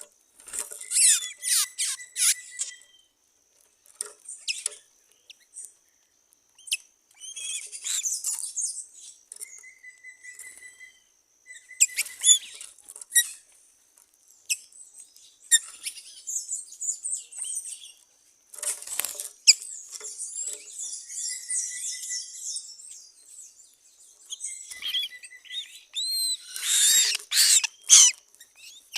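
Several wild songbirds calling and singing in an overlapping mix of short high chirps, quick trills and whistles, with brief gaps between phrases. A thin steady high tone runs underneath.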